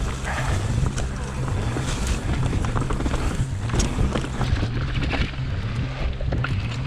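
A mountain bike riding fast down a rough trail: wind buffets the helmet camera's microphone, and the frame and drivetrain rattle and clatter over roots and rocks.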